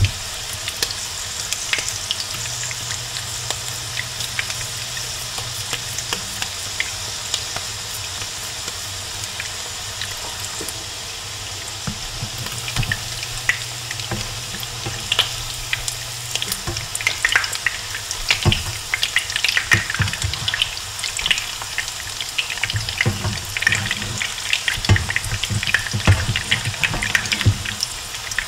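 Salmon patties shallow-frying in oil in a cast-iron skillet: a steady sizzle with crackles. About halfway through the sizzle grows louder and busier, with sharp pops and clicks, as the patties are turned with spatulas against the pan.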